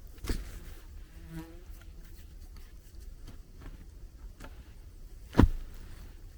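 Two sharp knocks, a small one just after the start and a louder one near the end, with a short buzzing hum about a second in.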